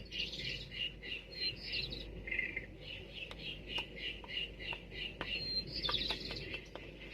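Small birds chirping in quick repeated high notes, about two to three a second, with a few faint clicks in the second half.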